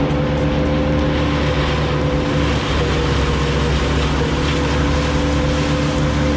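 Engine running steadily at a constant speed, with an even, unchanging hum.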